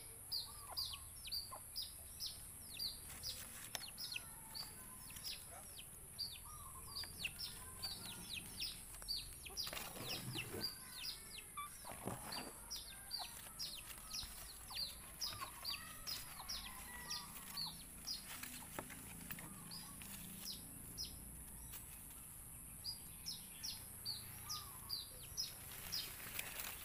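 A bird chirping steadily in a long series of short, high, falling chirps, about two or three a second, over a steady high hiss.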